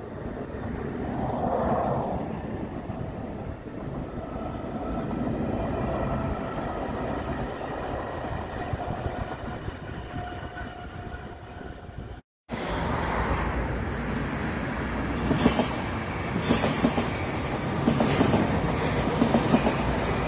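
Slow passenger trains rolling past: a steady rumble of wheels on rail with faint squealing tones. About two-thirds through the sound breaks off for a moment, then comes back louder, with clunks of wheels over rail joints and a high-pitched wheel squeal.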